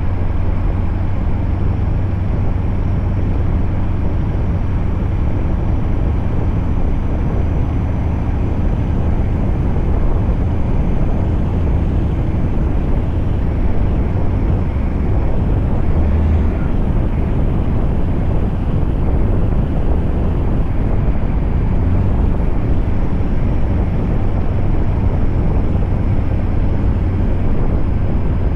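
Scania truck running steadily on the move: a constant deep engine drone with road noise and no change in pace.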